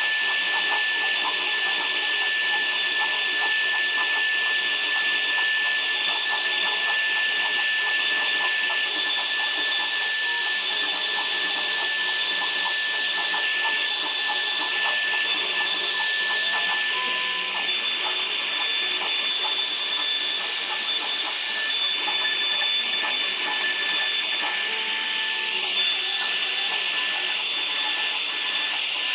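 A woodworking power tool running steadily throughout, a continuous hissing noise with one constant high whine over it.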